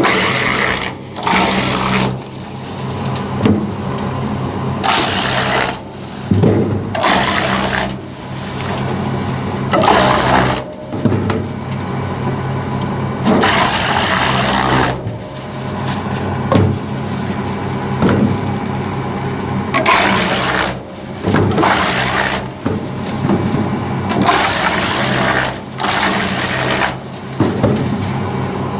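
Disc wood chipper running with a steady low hum, broken every two to three seconds by a loud burst of chipping noise lasting about a second as wood goes through the cutter disc.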